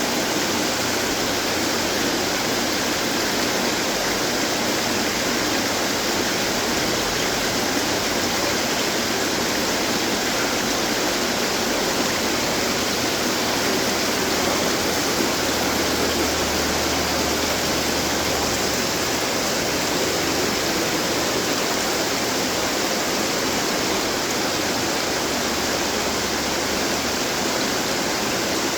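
Many garden water fountains running at once: a steady rush of falling and splashing water.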